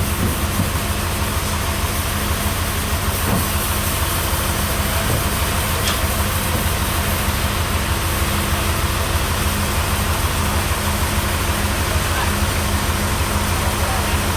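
A heavy engine idling steadily with a constant low rumble.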